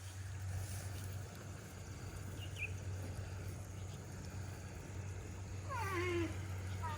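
A steady low hum with a short animal call of a few falling notes about six seconds in, and a faint chirp a little before the middle.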